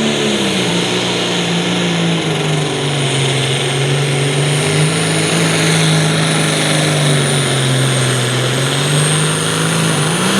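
International 1466 pulling tractor's diesel engine under full load dragging the sled: its pitch drops in the first second, holds steady, and rises sharply near the end, with a high whistle above it. The announcer says the tractor had issues out of the gate and was not quite sounding normal.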